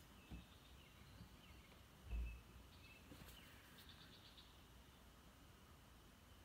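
Near silence with faint, high chirps of distant small birds and a short rapid trill about four seconds in. A low thump just after two seconds is the loudest sound, with a smaller one near the start.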